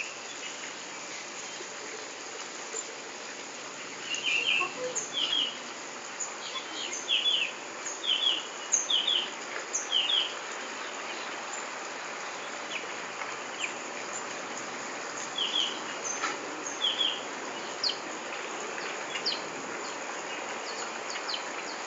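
Birds chirping in short, quick groups of high calls, in two spells, over a steady background hiss.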